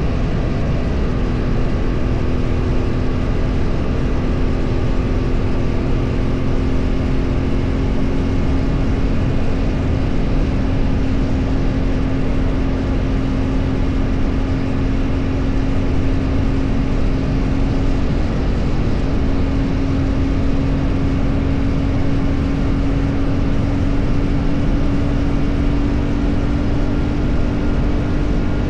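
Vehicle engine running at a steady cruise under heavy wind and road noise, its hum holding one pitch and creeping slowly higher.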